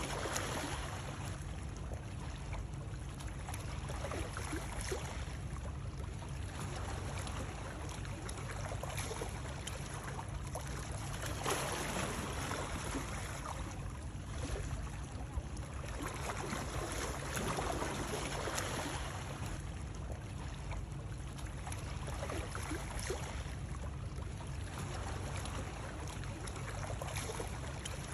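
Steady flowing water, swelling and easing about every six seconds, with a steady low rumble underneath and scattered small splashes.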